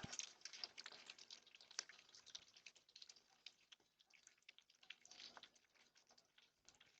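Faint, irregular short high-pitched chirps of a northern cardinal nestling begging for food, thinning out towards the end.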